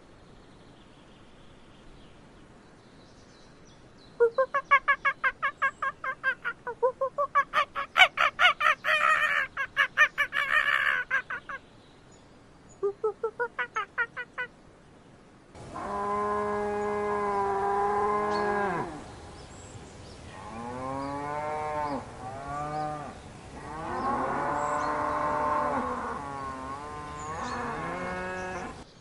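A fast run of loud, pulsed animal calls, several a second, then a pause and a shorter burst. Cattle then take over, mooing in long, low, drawn-out calls, some steady and some bending in pitch.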